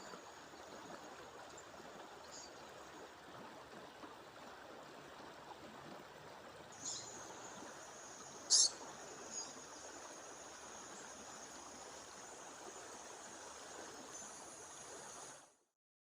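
Steady rush of waterfall water, with a female bird giving a few short, high chirps, the loudest about eight and a half seconds in, and a thin high steady tone from about seven seconds on. The sound cuts off abruptly near the end.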